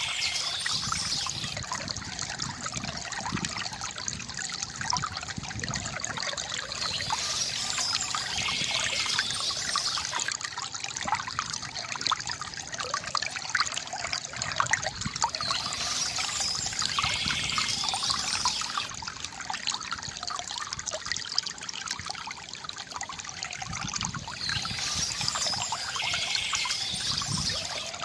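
Water trickling and splashing steadily from a bamboo fountain. The splashing turns brighter in a pattern that repeats about every eight to nine seconds.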